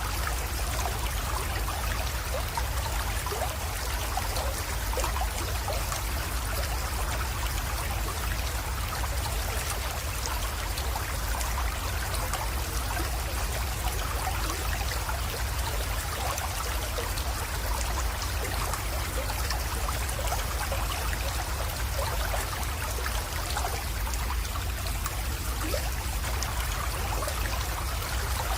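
Small creek water flowing and trickling steadily into a pond, with a steady low rumble underneath.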